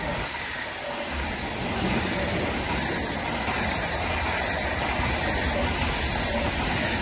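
Container wagons of a freight train rolling past at speed, a steady rushing rumble of steel wheels on the rails.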